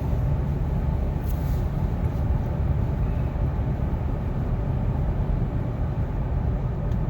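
Steady low rumble of road and engine noise inside a car's cabin while driving on a highway.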